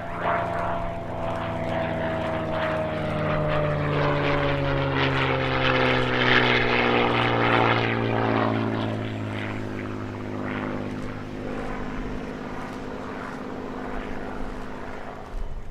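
Goodyear-built Corsair fighter's Pratt & Whitney R-2800 radial engine and propeller running as it flies past. The engine note swells to its loudest about halfway through and its pitch falls steadily as the aircraft passes.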